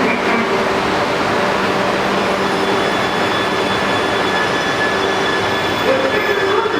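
Coupled E2 series and E3 series Shinkansen trainsets pulling out of the station: a steady noise of wheels running on rail with a few faint, steady high tones from the drive.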